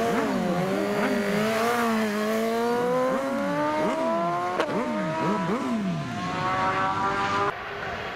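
Superbike racing motorcycle engine running hard at high revs, its note climbing steadily with a few brief dips as it accelerates. Near the end the sound drops away abruptly.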